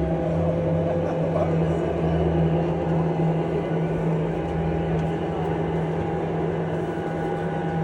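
A steady machine hum holding one constant low pitch over a low rumble, easing off slightly near the end.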